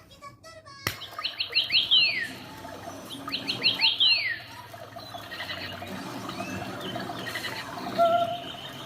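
A bird singing: twice, a quick run of four or five chirps ending in a long falling whistle, then softer, scattered chattering calls.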